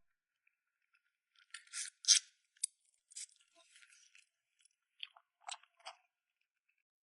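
Close-up eating sounds: a quick run of sharp crunches and wet mouth clicks about one and a half seconds in, then scattered smaller ones and three more clicks near the end.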